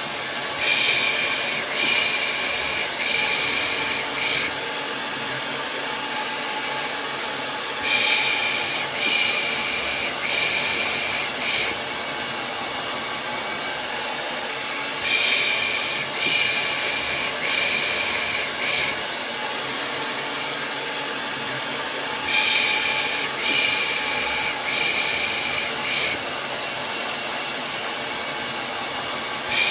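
Hair dryer blowing steadily as white noise. Over it a voice shushes 'pış pış' in groups of four soft hisses, about one a second, with each group repeating roughly every seven seconds. This is the rhythmic shushing used to lull a baby to sleep.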